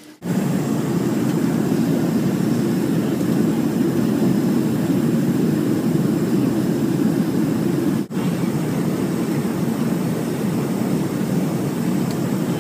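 Jet airliner cabin noise: a loud, steady low rush of engines and airflow, breaking off for an instant about eight seconds in.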